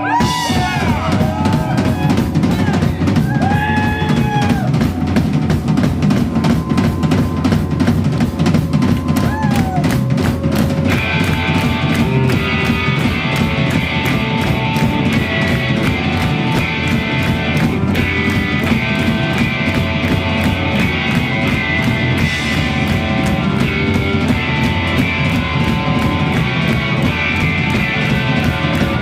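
Live rock band playing an instrumental passage with a driving, even drum beat. Electric guitar bends and slides over the drums in the first few seconds, and from about eleven seconds in, loud distorted guitar chords join in.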